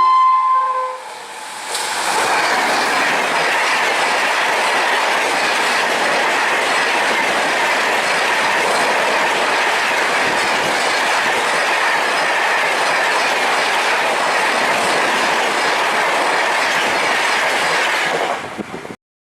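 An Indian Railways express train's horn ends about half a second in. Then the train passes the level crossing at speed: a loud, steady rush of wheels and carriages that cuts off abruptly near the end.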